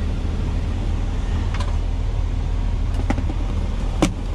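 Steady low drone of an idling truck heard inside the cab, with a few sharp clicks, the loudest near the end.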